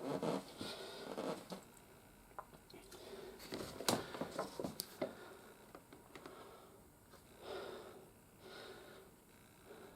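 Hard plastic toy playset parts being handled and pressed together, with rustling and a run of sharp plastic clicks through the middle, the loudest about four seconds in.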